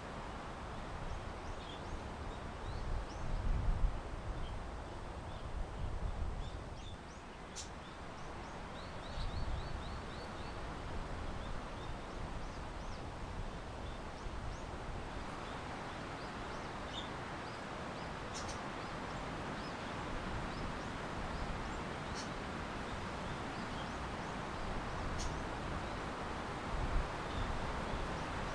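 Steady outdoor hiss with wind gusting on the microphone in low rumbles, and small birds chirping faintly now and then in short, high notes.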